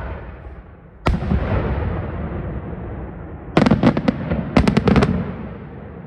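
Aerial fireworks shells bursting: one loud bang about a second in with a long echoing tail, then a quick run of about ten sharp bangs between three and a half and five seconds in, fading out as the echoes die away.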